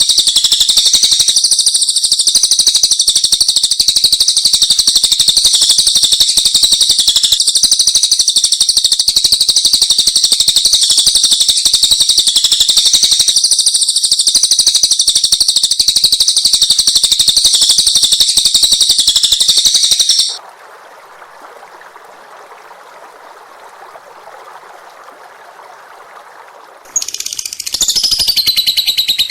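Caged songbird singing a dense, rapid, unbroken high trilling song that stops abruptly about twenty seconds in. A quiet low hiss follows for several seconds. Near the end a different high song with gliding notes starts.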